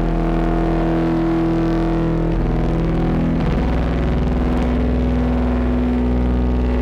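Distorted ambient drone from a Eurorack modular synthesizer: a DPO oscillator through a Belgrad filter, Lyra8-FX distortion and Mimeophon delay, holding sustained pitched tones. About two and a half to three and a half seconds in, the held notes slide to a new, lower chord as the loop moves on.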